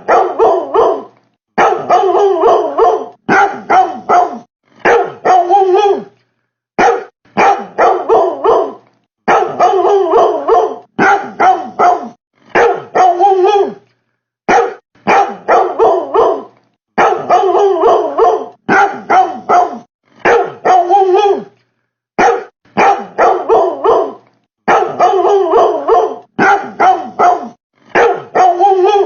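A dog barking over and over in quick runs of several barks each. The gaps between runs drop to dead silence, as in an edited, repeating recording.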